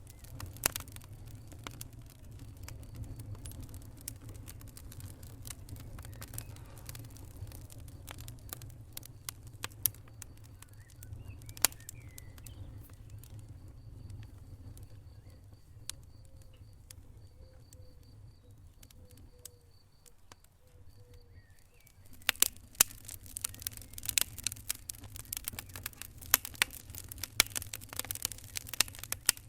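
Wood fire crackling, with sharp irregular pops over a steady low rumble of burning. The crackling thins out in the middle, where a faint, high, evenly repeated pipping is heard, then grows dense and loud again about 22 seconds in.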